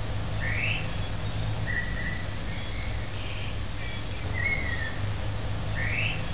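Bird calls over a steady low outdoor rumble: short whistled notes and a quick rising call, with the same sequence of calls coming round again about five seconds later.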